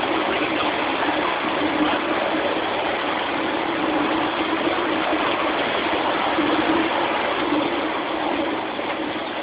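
Steady running noise of a 7.25 in gauge miniature train in motion, an even rumble and hiss at a constant level.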